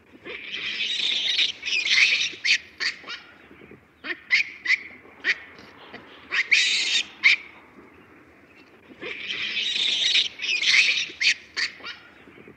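Baboon screaming: three bouts of harsh, high shrieks, with short sharp calls between them and a brief lull about two-thirds of the way through.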